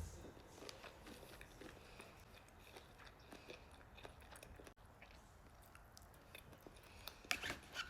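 Faint chewing and mouth sounds of someone eating, scattered soft clicks, with a short louder crackly burst near the end.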